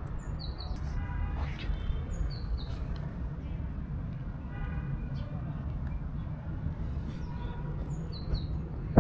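Small birds chirping in short, high notes that come in pairs a few times, with two longer pitched calls, over a steady low outdoor rumble.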